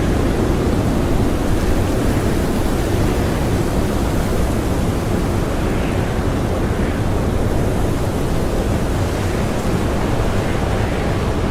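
Strong blizzard wind blowing without a break, a dense rushing noise that swells slightly about halfway through.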